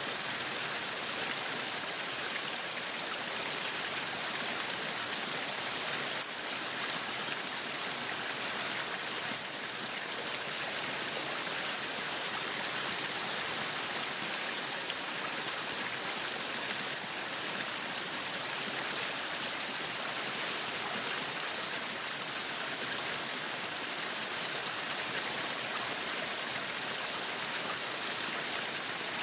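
Yakiniku meat sizzling on a grill: a steady hiss with faint fine crackles.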